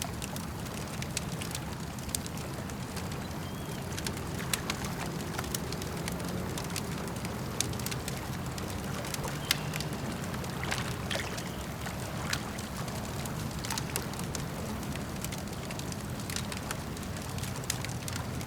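Campfire crackling with frequent sharp pops and snaps over a steady low rumble of lapping lake water.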